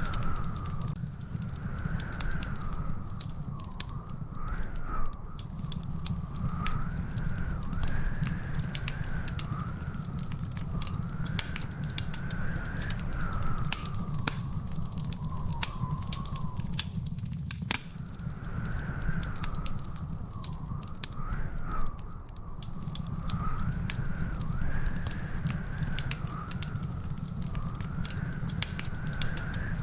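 Wood fire crackling: many sharp pops over a steady low rumble, with two louder pops, one about five seconds in and one about twenty-two seconds in. A thin whistling tone wavers up and down in pitch behind the crackle.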